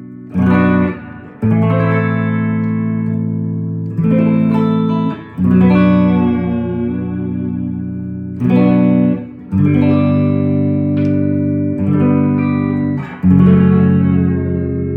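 1966 Gretsch 6120 Nashville hollow-body electric guitar, freshly refretted and fitted with a new bone nut, strumming chords: about eight strokes, a couple cut short as stabs and the rest left ringing out.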